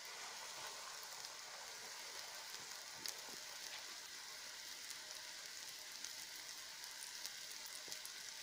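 A breaded slice of turkey breast sizzling as it fries in hot oil and butter: a steady crackling hiss with scattered small pops.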